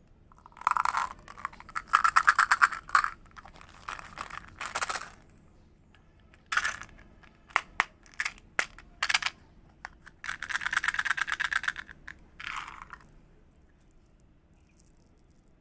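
Wood fire crackling in a fireplace: bursts of rapid pops and snaps, with a few single sharp pops in between, dying down to a faint hiss near the end.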